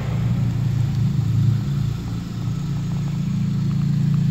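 2015 Honda Civic Si's 2.4-litre four-cylinder engine idling steadily, breathing through an RV6 catted downpipe and Invidia N1 catback exhaust.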